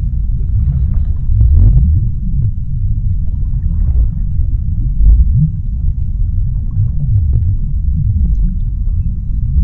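Underwater sea ambience: a deep, steady rumble with many short low glides rising and falling within it.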